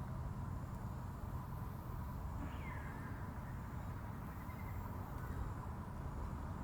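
Steady outdoor background noise with a low rumble, and a single faint bird call, a short falling note, about two and a half seconds in.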